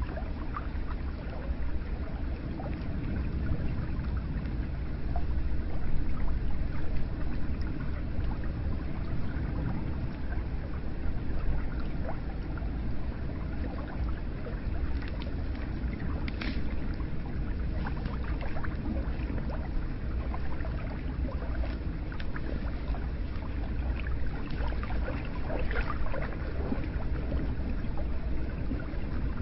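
Hot spring water pouring steadily into an onsen bath: continuous deep splashing and gurgling, with scattered small drips.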